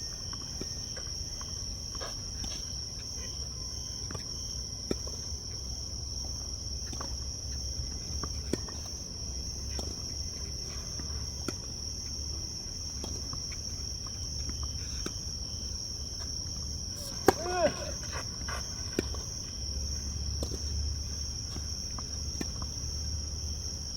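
Steady high-pitched drone of insects, with the sharp pops of tennis balls struck by rackets every second or two during a rally. The loudest hit comes about two-thirds of the way in, followed by a brief shout.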